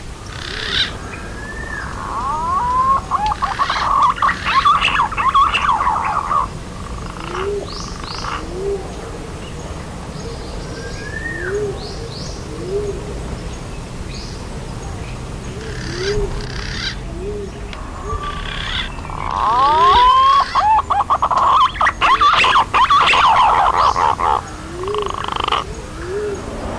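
Green pigeon (punai) lure recording: two bouts of rapid, warbling whistled calls lasting a few seconds each, one about two seconds in and one about twenty seconds in. Short, low rising notes are scattered between the bouts.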